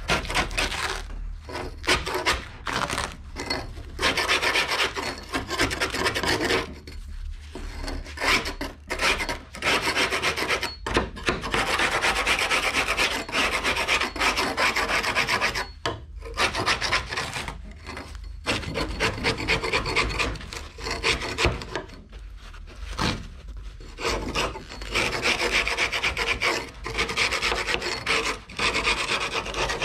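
Hand scraper stripping old carpet off a bass boat hatch lid: rasping scrape strokes in quick runs, with short pauses between runs.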